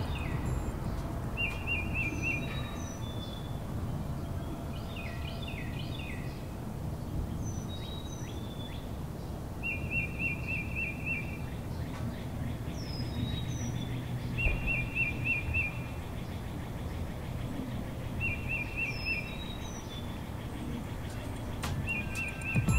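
Wild birds singing outdoors: one bird repeats a short, quick trilled phrase every few seconds, while other birds give scattered higher chirps, over a steady low outdoor background noise.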